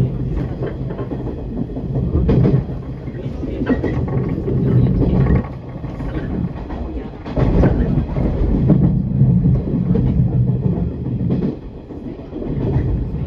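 Electric train running along the track, heard from inside the front cab: a steady low rumble of wheels and running gear with a few sharp clacks over rail joints, easing off briefly twice.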